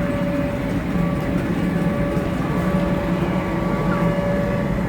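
Steady mechanical hum with a constant whine held at one pitch, unchanging throughout.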